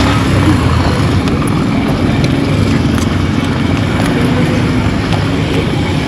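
Steady road traffic noise, with the low hum of motor vehicle engines running.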